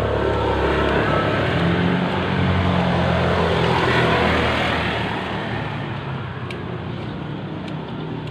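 A motor vehicle going past, its engine hum and road noise growing louder to a peak about halfway through, then fading away.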